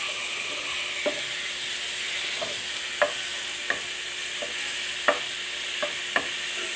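Chicken pieces with onion, garlic and ginger sizzling in hot oil as they are stir-fried in a pan, with a steady hiss. A wooden spatula knocks and scrapes against the pan about eight times as it stirs.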